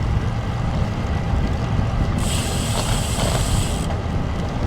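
Strong headwind buffeting the microphone of a camera on a moving bicycle, a steady low rumble. A high hiss cuts in sharply for under two seconds in the middle.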